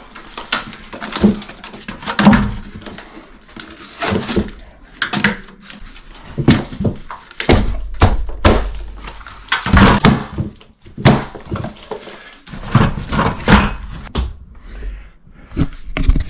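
Irregular knocks, thuds and scraping from hand tools working on a bathtub wall.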